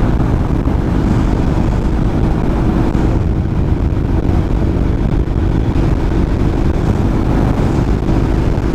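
Honda NC700X motorcycle's parallel-twin engine running at a steady cruise, its note holding level, under wind noise on the microphone.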